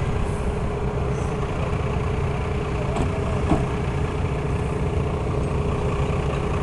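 Heavy diesel truck engine idling steadily, with no revving.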